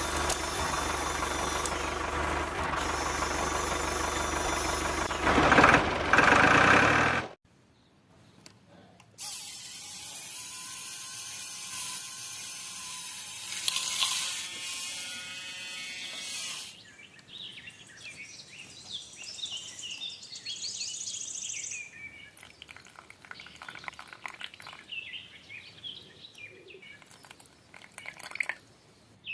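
A small motor runs steadily and cuts off suddenly about seven seconds in. A second steady whirring sound runs for several seconds after it, then faint scattered chirps.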